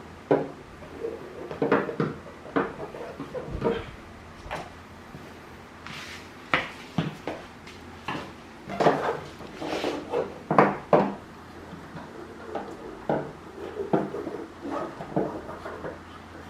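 Irregular knocks, taps and clatter from hands and tools working on a treadmill's deck and belt during lubrication, over a steady low hum.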